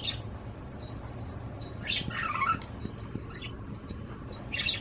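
Budgie chirping: a few short, scratchy high calls, the longest about two seconds in sliding down in pitch.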